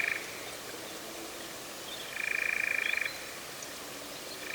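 European nightjar churring: a fast, even trill held on one pitch. It stops just after the start, returns for about a second around two seconds in, and starts again near the end.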